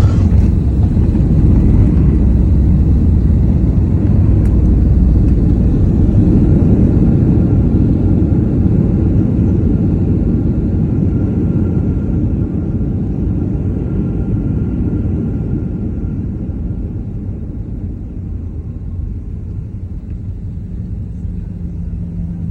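Boeing 737 landing: a loud, low rumble that rises sharply at the start, then slowly eases off toward the end as the jet slows.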